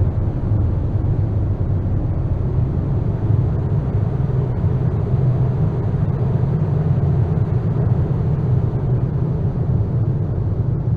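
Experimental dark-ambient noise piece: a loud, steady low rumble with no tune or beat.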